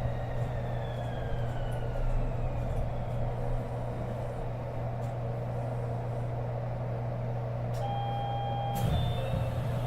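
Kobe New Transit 2020-series rubber-tyred automated people mover heard from inside the car, its motor whine falling in pitch as it brakes to a stop over a steady low hum. Near the end a steady chime tone, a sharp clunk and a few short tones follow as the doors open.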